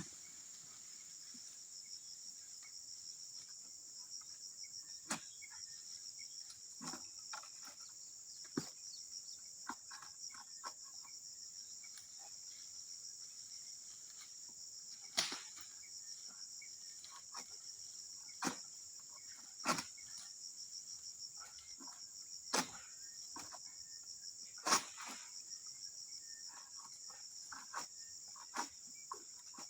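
Steady high-pitched insect chorus, with about nine scattered sharp knocks and snaps over it, the loudest about 25 seconds in.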